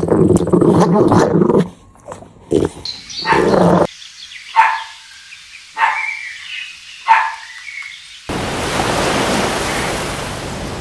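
A dog growling, then three sharp barks about a second apart. A steady rushing noise starts suddenly near the end.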